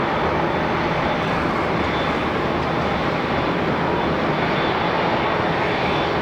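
Jet airliner landing, its engines making a loud, steady rushing noise.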